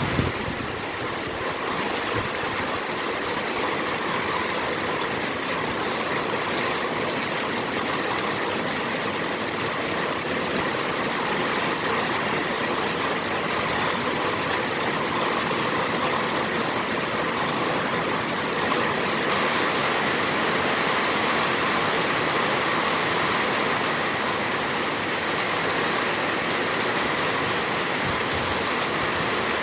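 Heavy rain falling as a steady, even hiss without breaks.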